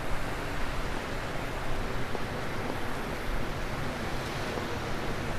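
Surf washing onto a sandy beach: a steady, even wash of wave noise.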